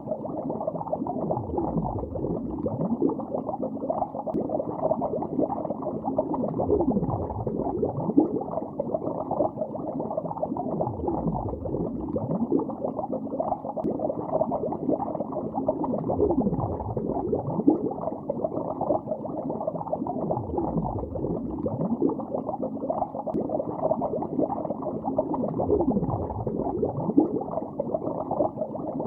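Continuous underwater bubbling heard through a hydrophone-like muffled recording: a dense stream of bubbles with many short pitch sweeps, all below the mid range with no high sounds.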